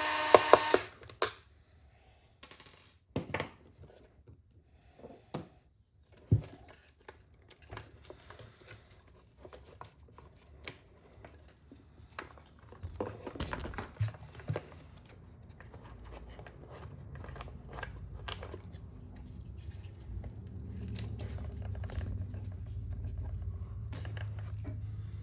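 An electric screwdriver whirs and stops within the first second, then small plastic and metal parts click, tap and rattle as an RC car chassis is handled and pried apart. A low hum builds in the second half.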